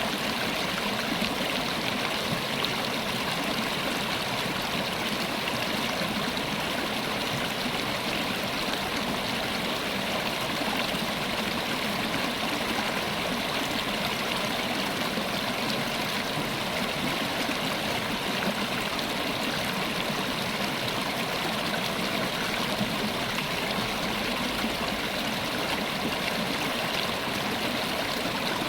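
A river's water flowing and splashing over stones in a steady, unbroken rush.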